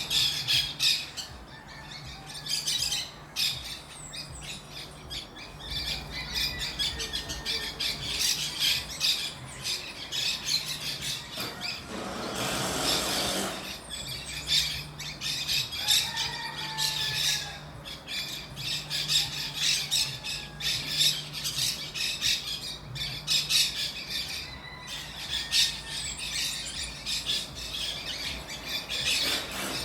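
A flock of small green birds calling constantly in dense, overlapping high chatter. A steady low hum runs underneath, and a brief rush of noise comes about twelve seconds in.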